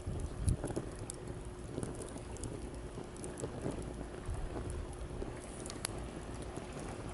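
Wood campfire crackling, with scattered small pops and a sharper pop near the end, over a steady low wash of sea waves. There is a louder dull thump about half a second in.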